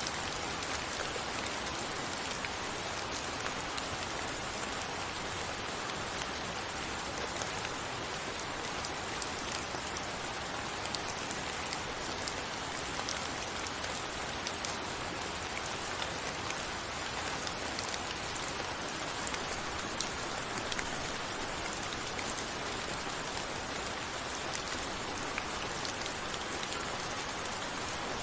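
Steady rain falling, an even hiss with many small drop patters scattered through it.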